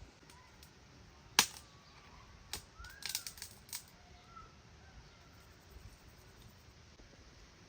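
Several sharp clicks or knocks, the loudest about a second and a half in and a quick cluster around three seconds in, over faint bird chirps.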